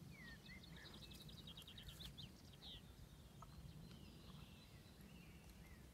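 Faint songbird song: a fast trill of repeated high notes, then a few chirps and slurred whistles, growing sparser after about three seconds, over steady low background noise.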